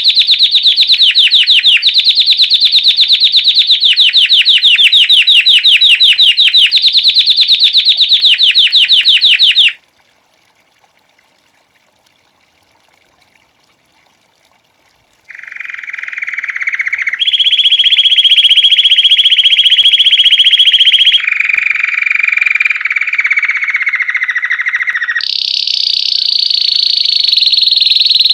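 Belgian canary singing: a fast, even, high trill that stops about a third of the way in, then after a pause of about five seconds a run of trilled phrases, each held for a couple of seconds at its own pitch, one of them slowly falling.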